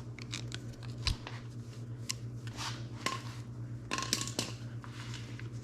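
Irregular small clicks, taps and scrapes of hand tools and metal parts being worked on a dirt-bike engine's top end, over a steady low hum.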